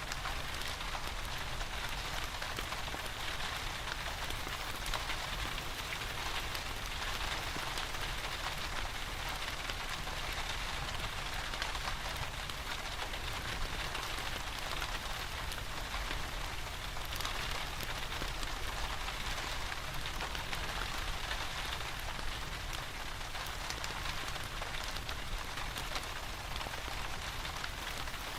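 Steady rain falling, a dense even hiss of fine pattering drops that keeps the same level throughout.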